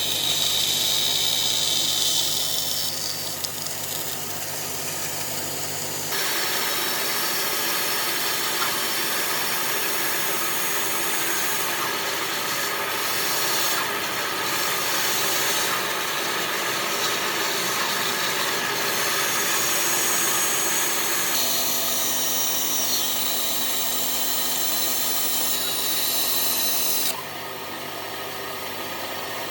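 Woodworking power tools running on wood, a steady mechanical whir with a faint hum. The sound changes abruptly a few times as one tool or task gives way to another.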